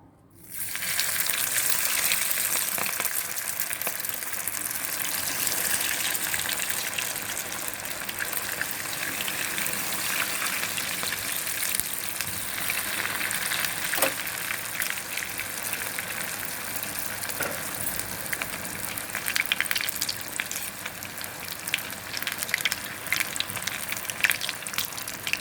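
Breadcrumb-coated chicken rolls deep-frying in oil: a steady sizzle that starts suddenly about half a second in as they go into the oil, with more crackling pops in the last few seconds.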